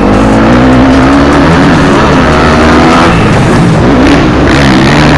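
Motocross motorcycle engine revving hard, its pitch rising and falling repeatedly through the gears.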